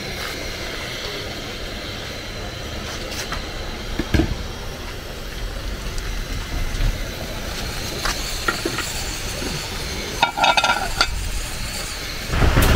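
Steady hiss of rain falling, with a few light knocks of a spoon stirring a pot of vegetable soup.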